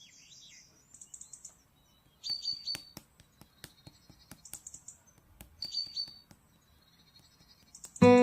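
Slime being handled, making faint sharp clicks and small pops, with a few short high chirping sounds every second or two.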